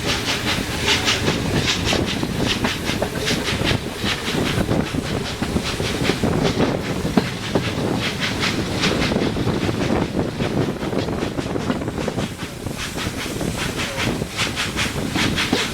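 Ol49 steam locomotive hauling its coaches: rhythmic exhaust chuffs and hiss of steam over the rumble and clatter of wheels on the rails.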